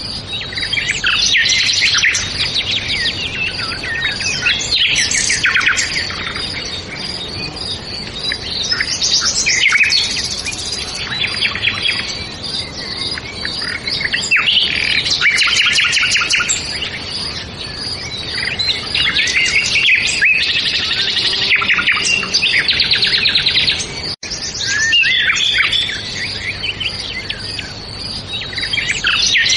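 Several songbirds chirping and singing in overlapping bursts of quick, high chirps and trills, with a split-second dropout about three-quarters of the way through.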